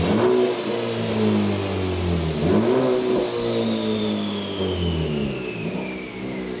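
Honda Civic Type R FL5's 2.0-litre turbocharged four-cylinder (K20C1) running through a Milltek valved sport exhaust. The revs dip and climb back twice, about two and a half seconds apart, and then die away, while a high whine falls steadily in pitch.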